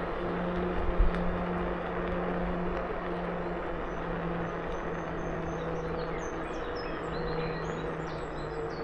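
KuKirin G2 electric scooter riding along, its motor giving a steady, even whine over tyre and wind noise, with a short knock about a second in. Birds chirp over it near the end.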